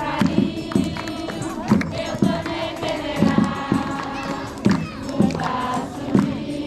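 A group singing together over a steady low beat about twice a second.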